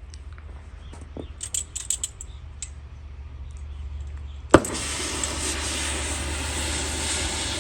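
Light metallic clinks of loose parts being handled. About four and a half seconds in comes a sharp knock, then a loud steady rushing noise that keeps going.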